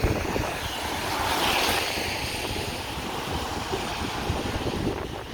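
Road traffic hissing past on wet pavement, with a low rumble underneath and wind buffeting the microphone; the hiss swells about a second in.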